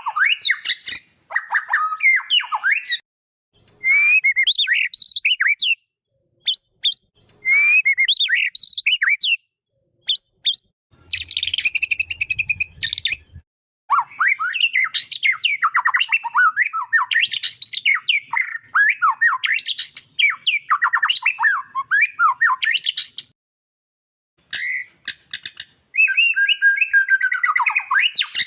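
White-rumped shama (murai batu) song: a series of varied, fast whistled phrases broken by short pauses, with a harsh rasping burst about halfway through, then a long unbroken run of rapid song.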